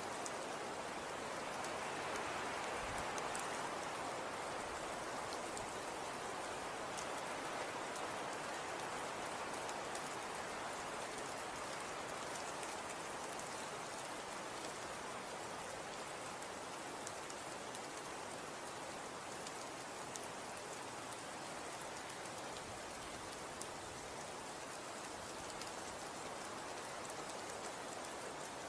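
Falling snow pattering steadily on surfaces: an even, soft hiss with faint scattered ticks.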